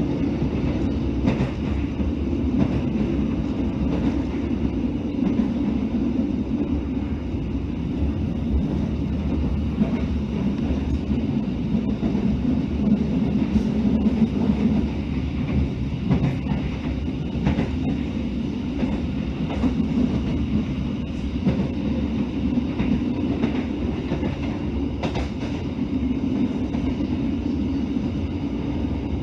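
A passenger train running along the track, heard from inside the coach: a steady rumble of wheels and bogies, with scattered sharp clicks at irregular intervals.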